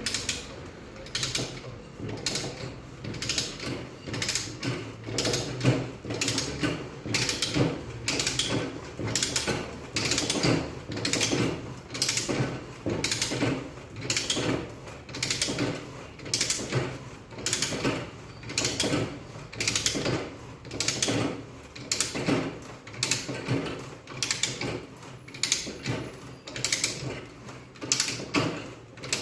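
A plumber's hand tool worked in steady, even strokes, about three every two seconds, a repetitive mechanical sound that keeps going without a break.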